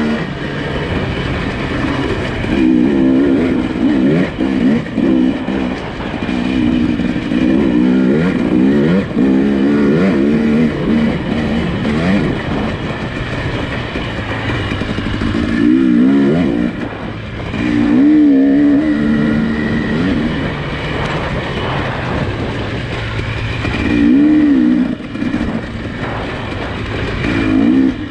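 Nissan Pathfinder engine running on an off-road trail, its pitch rising and falling repeatedly with the throttle.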